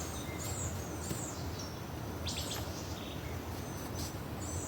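A small bird calling outdoors: short, high, arched chirps, several in quick succession near the start and a brief scratchy call about halfway, over a steady low background rush.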